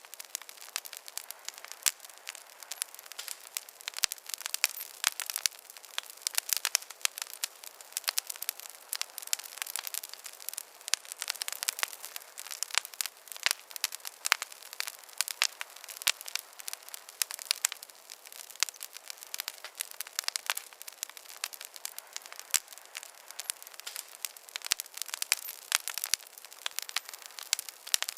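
Campfire crackling and popping: many sharp snaps at irregular intervals over a steady hiss of burning wood.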